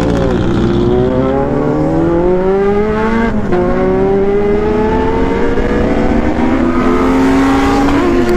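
Honda CB400 Super Four Version S inline-four engine accelerating hard, its pitch climbing steadily, with an upshift about three and a half seconds in and another near the end.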